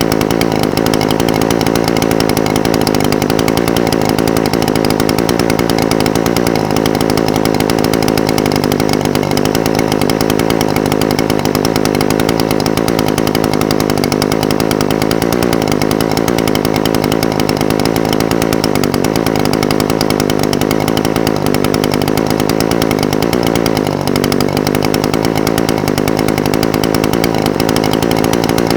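Echo SRM-420TES brush cutter's two-stroke engine idling steadily, its speed drifting slightly now and then.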